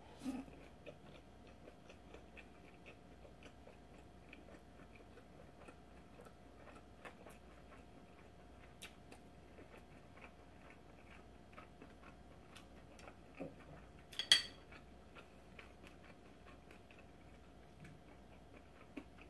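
Faint chewing of a mouthful of gimbap: small mouth clicks scattered through, with one sharper click about 14 seconds in, over a faint steady hum.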